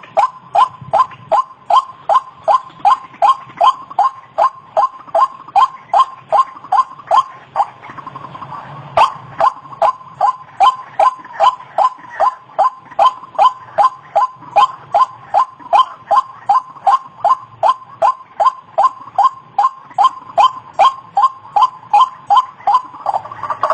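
White-breasted waterhen (ruak-ruak) calling: a long run of short repeated notes, about two and a half a second, with a brief break about eight seconds in.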